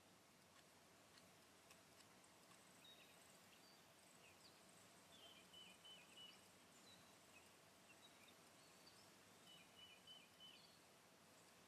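Faint songbird chirps over a soft steady background hiss, with quick runs of short high notes about halfway through and again near the end.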